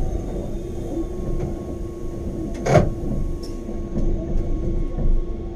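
Rack-railway train running, with a steady low rumble and motor hum and one sharp loud clack about halfway through.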